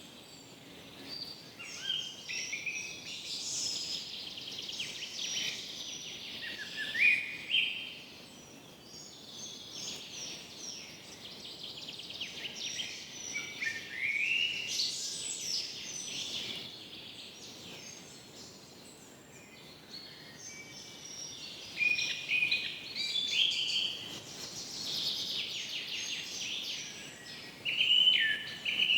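Several birds singing and calling at once, overlapping chirps and rapid runs of notes that rise and fade in waves, over a faint steady background hiss.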